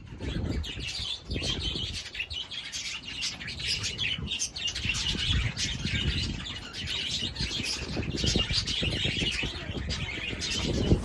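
Many small birds chirping and twittering together in a dense, unbroken chorus, over a low uneven rumble.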